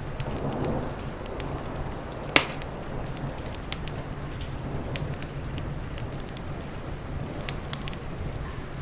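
Wood fire crackling with scattered sharp pops, one much louder crack about two and a half seconds in. Under it runs steady rain with a low rumble.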